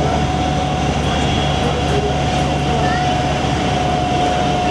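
Tractor diesel engine running steadily under load on a dynamometer, with a constant high whine over the engine noise. The engine is the MAN diesel of a Fendt Favorit 824.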